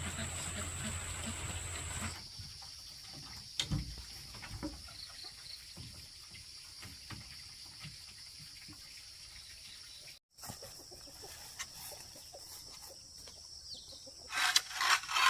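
Outdoor ambience with a steady high-pitched insect drone, preceded for about two seconds by a rush of running water. A few light knocks occur, and near the end there is a short cluster of loud sounds.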